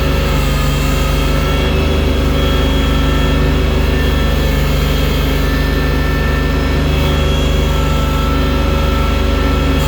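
Engine of a bucket-equipped snow-clearing machine running steadily at an even speed, with a constant low drone and some fainter higher whining tones.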